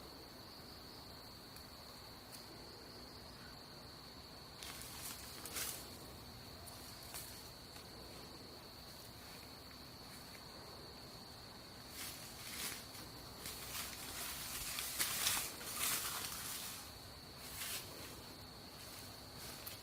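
A steady, high-pitched insect trill runs throughout. From about five seconds in come irregular rustling, crackling noises of movement through dry leaves and brush, growing busier in the second half.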